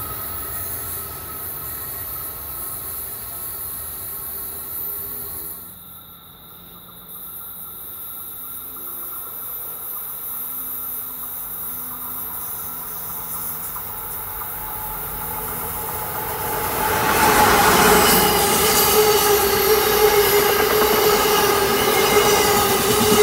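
Amtrak Northeast Regional train approaching and then passing close by, running at a 30 mph speed restriction over track work. Its wheel-and-rail noise swells to loud about two-thirds of the way in, with a steady high tone over it. Earlier, a fainter steady train sound breaks off sharply about six seconds in.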